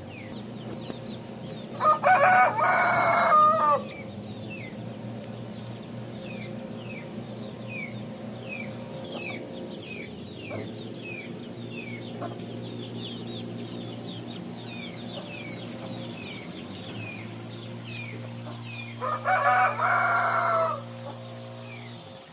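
Rooster crowing twice, one long crow a couple of seconds in and another near the end. Between them, short falling chirps repeat steadily about twice a second over a low steady hum.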